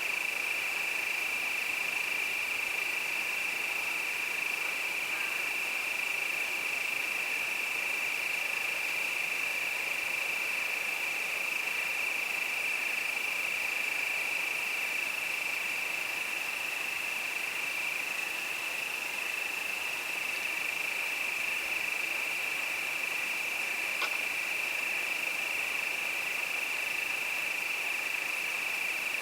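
A chorus of crickets: one steady, unbroken high-pitched trill, with a faint click about twenty-four seconds in.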